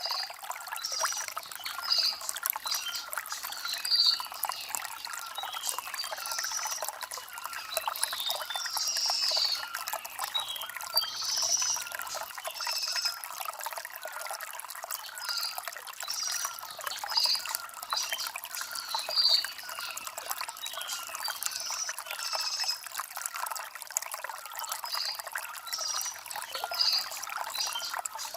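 Shallow stream trickling and gurgling over stones, with birds chirping in short calls every second or two throughout.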